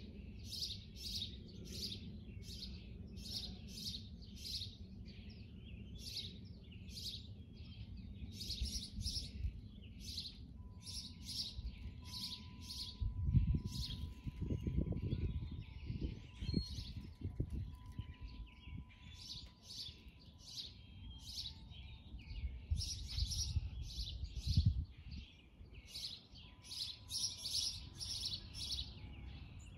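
Birds chirping, a steady run of short high calls at about two a second, with low rumbling wind gusts on the microphone partway through.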